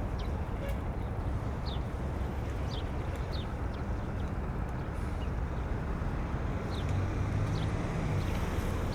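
Outdoor waterfront ambience: a steady low rumble of wind and distant engines, with a low hum that grows a little louder near the end. A small bird chirps repeatedly over it, short high chirps falling in pitch about once a second.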